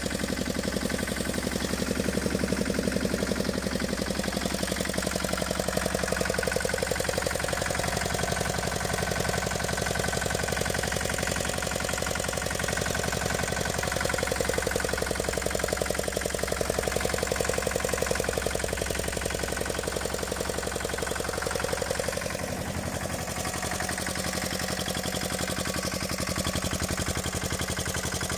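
Tomo Vinković TV 522 mini tractor's engine running steadily with an even rapid firing beat; its note changes slightly about three-quarters of the way through.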